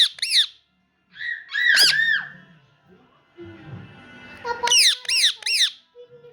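Indian ringneck parakeet giving short, sharply arching screeches: a quick run at the start, a single call about two seconds in, and three more in quick succession near the end.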